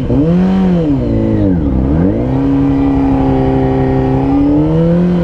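Honda CBR600RR's inline-four engine riding along. The revs rise briefly, drop back to a low point about two seconds in, then climb and hold steady.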